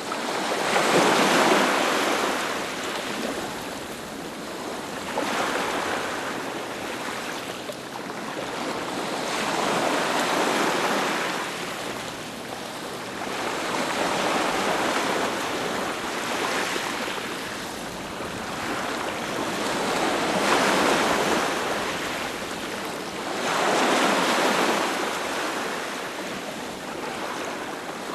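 Sea waves breaking on a beach, a hiss of surf that swells and fades every four to five seconds as each wave comes in and washes back.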